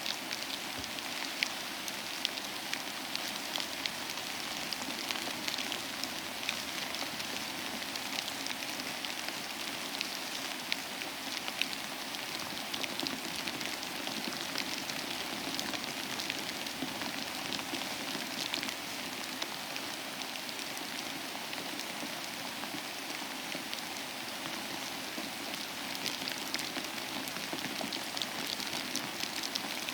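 Steady rain falling, a continuous hiss of rain on a surface with many small individual drops ticking through it.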